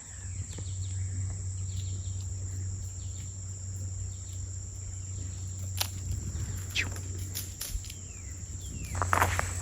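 Crickets giving a steady high-pitched trill under a low steady rumble, with a few scattered clicks. Light footsteps on the trail begin near the end.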